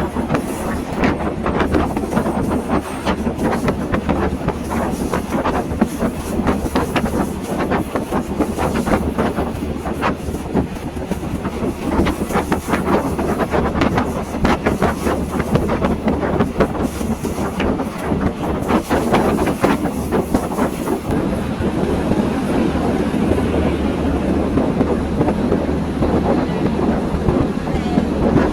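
Passenger train running on the rails: a steady low rumble with the wheels clacking over rail joints.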